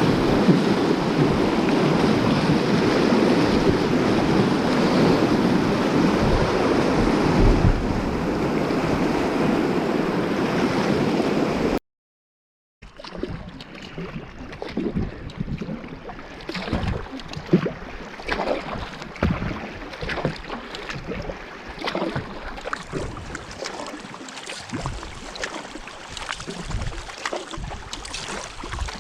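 Whitewater rushing loudly through a river rapid. About twelve seconds in the sound cuts out for a moment, then comes back as quieter moving water with a string of short irregular splashes.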